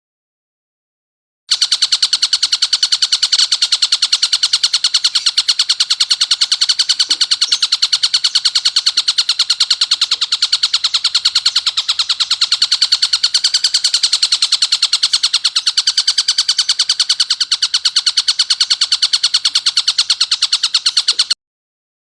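Tengkek buto kingfisher giving a long, fast, even rattle of harsh, rasping notes: the coarse, dense call used as song-training material. It starts about a second and a half in and stops abruptly just before the end.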